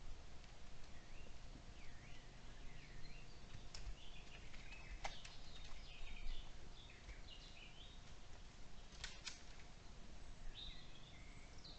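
Woodland birds singing faintly in short, repeated chirping phrases, over a low background rumble. A few sharp clicks cut in, one near the middle and two close together about nine seconds in.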